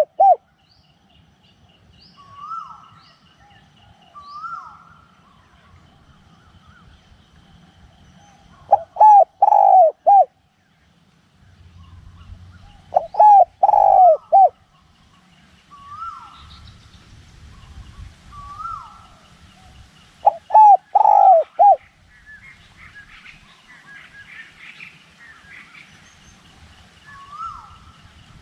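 Spotted dove cooing: three loud phrases of several coos each, about 9, 13 and 20 seconds in. Shorter, higher calls from other birds come between the phrases.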